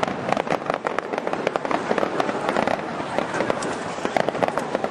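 Aerial fireworks shells bursting, a dense run of sharp crackles and pops in quick succession.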